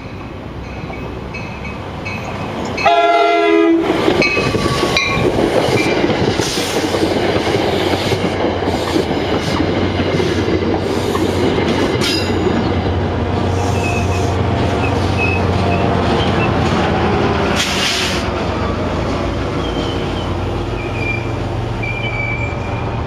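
A GP40-type diesel locomotive sounds one horn blast about three seconds in as the commuter train pulls into the station. The train then rolls past with steady rumble and wheel clatter, with short wheel squeals near the end.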